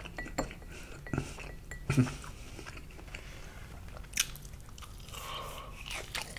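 Close-miked crunchy biting and chewing of a deep-fried, batter-coated sausage on a skewer, with several sharp crunches in the first two seconds and another about four seconds in.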